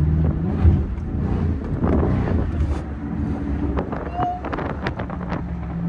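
Car engine and exhaust rumbling low and steady, with wind buffeting the microphone and a few scattered clicks and knocks in the middle.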